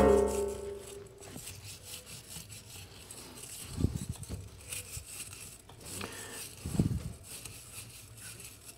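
A metallic ring dying away over the first second, then faint scrubbing and rubbing on a corroded Mag-Lite flashlight, broken by two dull knocks about four and seven seconds in.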